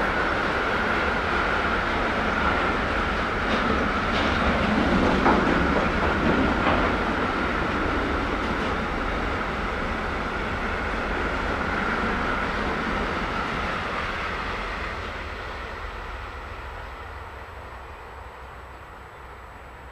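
Freight train of hopper wagons rolling past, with a steady wheel-on-rail rumble, a constant high hum and a few clacks over the rail joints. The sound fades away over the last few seconds as the final wagons move off.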